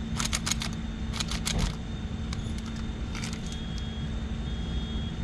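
Metal tongs being handled, giving a quick run of sharp metallic clicks and clinks in the first second and a half and a few more around three seconds in, over a steady low rumble.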